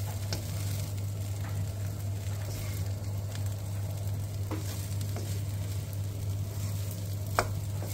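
Fried rice sizzling in a hot pan as it is stirred and turned with a wooden spatula. There are a few light knocks of the spatula on the pan, the sharpest near the end, over a steady low hum.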